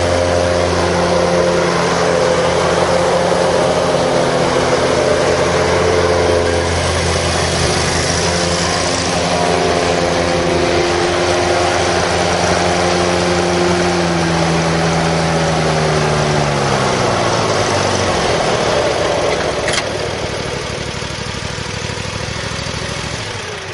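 John Deere Z830A zero-turn mower's 27 hp Kawasaki V-twin engine running steadily. About fifteen seconds in its pitch falls as it slows down; a click sounds about twenty seconds in, and the engine sound dies away near the end.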